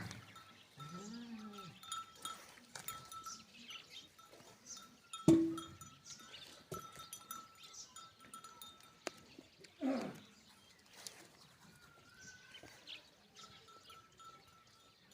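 Animal calls with a bell-like clank: a short call about a second in, a loud sharp clank with brief ringing about five seconds in, and a long falling call about ten seconds in, over a faint high tone that comes and goes.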